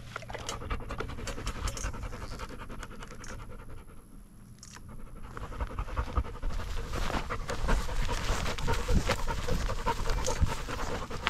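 Chocolate Labrador retriever panting right at a microphone strapped to its own body. The panting eases off for a couple of seconds in the middle, then comes back heavier from about six seconds on.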